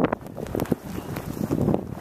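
Blizzard wind buffeting the microphone in uneven, gusty rushes.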